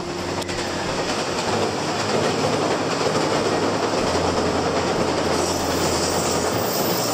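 A six-car JR 383 series electric limited express train running along the line, its wheels on the rails and its running noise swelling over the first two seconds, then holding steady.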